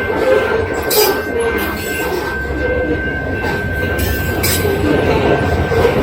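Cars of a grain train rolling past at speed: a steady rumble of wheels on rail with a thin, steady squeal, and sharp metallic clanks about a second in and again near four seconds.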